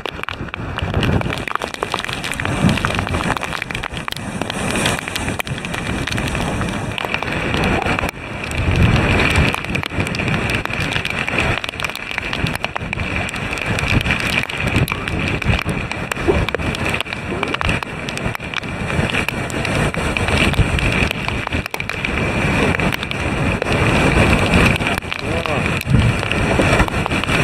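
Storm surf crashing against a concrete seawall in typhoon conditions, with heavy wind noise on the microphone. The roar is continuous, breaks off abruptly about eight seconds in, and comes back louder.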